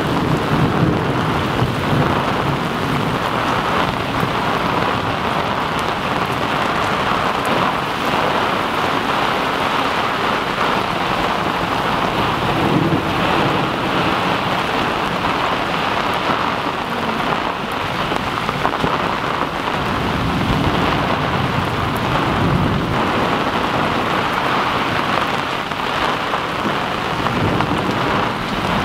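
Heavy rain of a thunderstorm pouring steadily onto a sailboat, with low rolls of thunder rumbling in a few times: about a second in, midway, and again for a few seconds later on.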